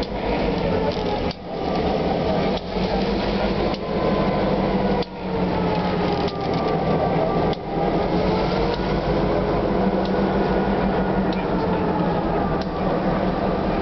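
A diesel locomotive and stainless-steel passenger cars rolling slowly past over a street grade crossing: a steady low engine drone and wheel rumble, with metallic clanking from the wheels and faint wavering whines.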